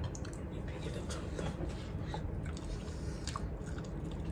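Close-up chewing and biting of food, with a few faint short clicks.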